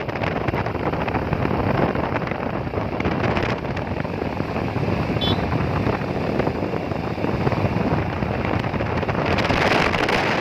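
Wind rushing over the microphone of a moving bike, with steady road and vehicle noise. A brief faint high beep about five seconds in.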